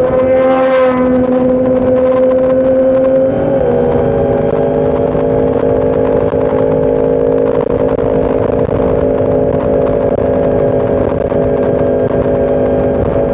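Motorcycle engine running steadily under way, with a brief rising note about a second in and a slight drop in pitch about three and a half seconds in.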